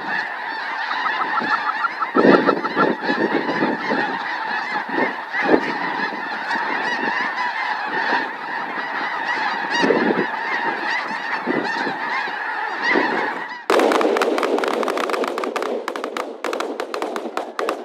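A large flock of snow geese honking in a dense, continuous chorus. Near the end a loud burst of rapid crackling noise starts suddenly over it.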